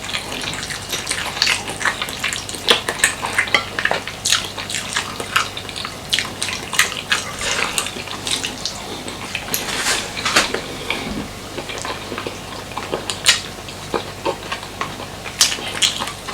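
Close-up eating sounds: wet chewing and mouth clicks, with many irregular sharp clicks and taps and no pause longer than a moment.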